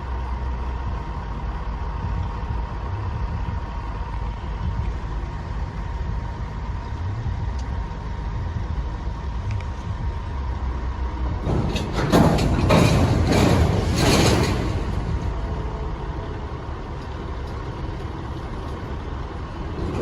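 EMD diesel switching locomotives running with a steady low rumble and a thin steady whine. A little past halfway, a loud hiss of escaping air from the air brakes bursts out for about three seconds, then the engine rumble carries on.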